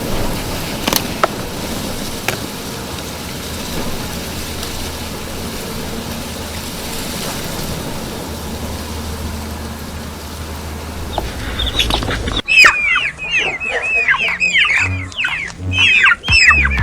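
A steady noisy background with a few faint clicks, then, after an abrupt change about twelve seconds in, a flurry of loud, quick bird chirps, each sliding downward in pitch, coming in rapid succession.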